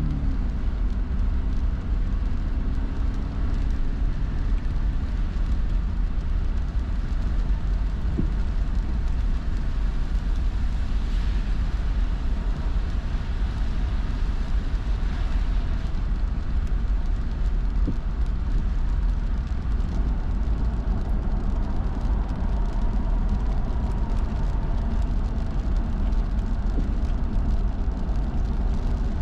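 A car driving at steady speed: continuous low road and tyre rumble with engine noise.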